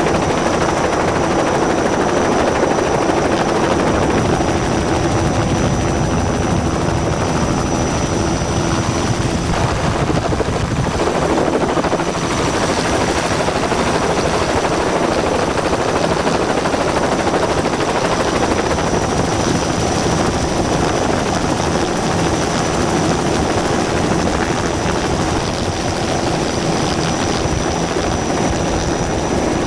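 A loud, steady engine drone with a rapid beat.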